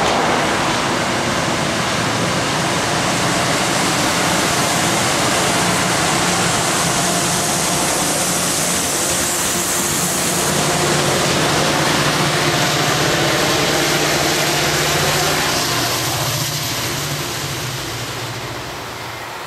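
MBTA diesel commuter train running at the platform below, a loud steady rush of noise over a low engine hum, fading away over the last few seconds.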